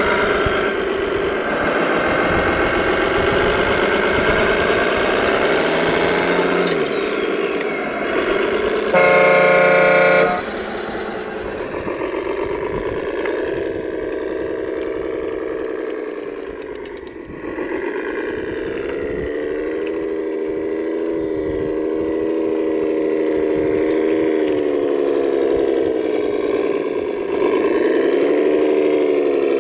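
RC construction vehicle running, its engine sound rising and falling in pitch as it works. A horn sounds once for just over a second, about nine seconds in.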